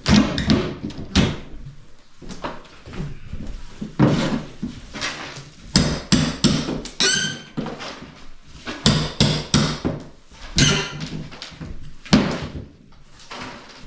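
Irregular knocks and clatter from handling and working materials, with a short squeak about halfway through.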